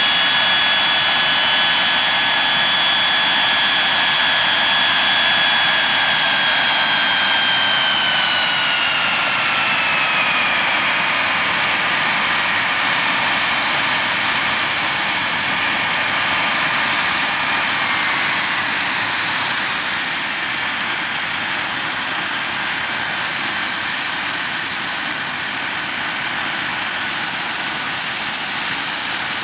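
Nimrod's Rolls-Royce Spey turbofan engines running on the ground: a loud, steady rush of jet noise with a high whine. From about eight seconds in, the whine falls in pitch in two steps and then holds steady.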